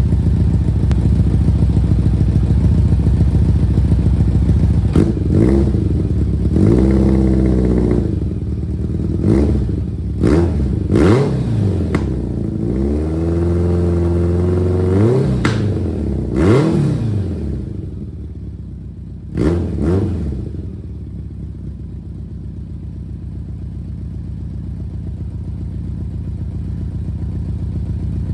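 1991 BMW K1's inline four-cylinder engine, breathing through a full exhaust system, idling and then revved up and down about ten times, some revs briefly held, before it settles back to a steady, quieter idle.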